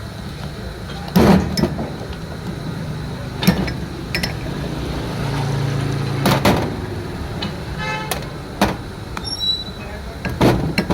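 A vehicle engine running steadily, with several sharp knocks and clanks over it.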